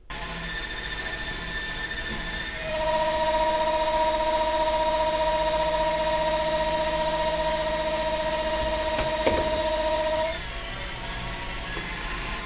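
Electric power tool motor starting abruptly and running with a steady high whine and hiss. It gets louder a few seconds in, with a single click, then eases back near the end.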